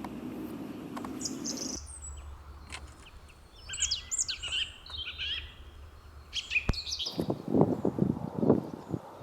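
A songbird sings short phrases of quick, high chirping notes, once a few seconds in and again near the end. The quiet it sings into is broken at the start by a low steady traffic rumble that cuts off about two seconds in.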